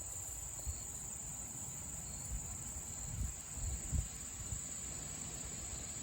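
Insects trilling in one steady, high-pitched drone, with a few soft low thumps underneath.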